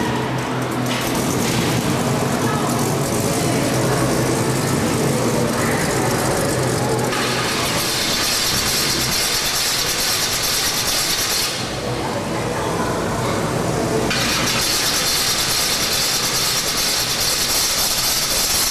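Supercharged hot-rod engine running steadily. A high hiss comes in about seven seconds in, drops out briefly and returns about fourteen seconds in.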